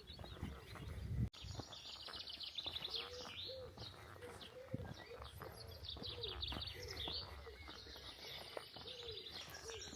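Several birds singing and calling, with high trills and chirps over a low cooing note that repeats every second or so.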